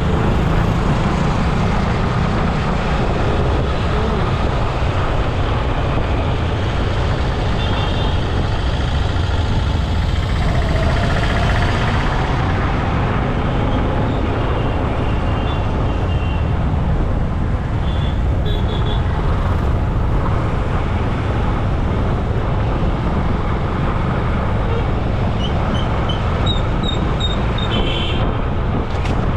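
Steady, loud road traffic noise heard while riding along a road, with a few faint, short high tones about a third of the way in, past the middle and near the end.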